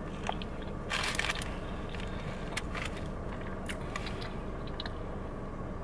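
A person chewing a mouthful of chalupa close to the microphone: a burst of crunchy crackling about a second in, then a few scattered soft chewing clicks, over a steady low hum.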